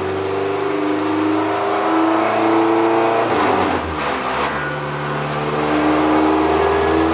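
Honda B20 VTEC four-cylinder in an EK Civic sedan running at a steady idle on open headers. Its note wavers briefly about three and a half seconds in.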